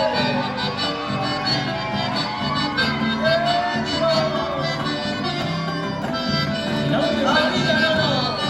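Chamamé played as an instrumental interlude between sung verses: a reed melody, typical of the accordion, weaves over a steady chordal accompaniment.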